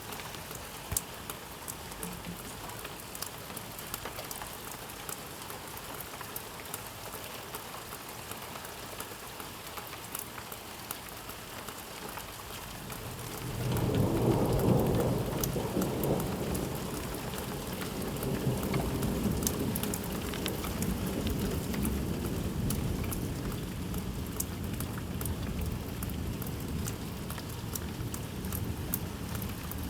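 Steady rain with many raindrops ticking. About thirteen seconds in, a long roll of thunder swells up, is loudest for a couple of seconds, then rumbles on more quietly for most of the rest.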